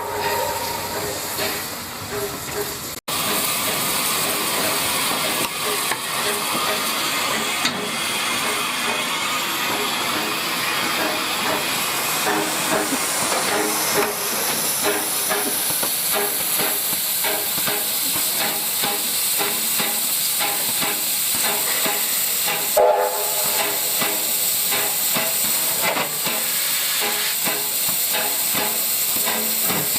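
Steam locomotive hissing loudly and steadily as steam escapes, with a short whistle-like tone about two-thirds of the way through.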